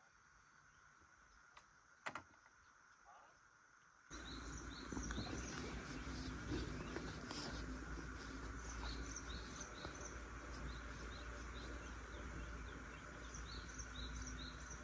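Near silence with a single click about two seconds in, then an outdoor background starts suddenly: a steady low rumble with birds chirping repeatedly over it.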